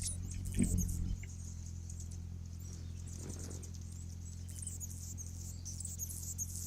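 Faint, high-pitched chirps of small birds, scattered and thinning out in the middle, over a steady low hum.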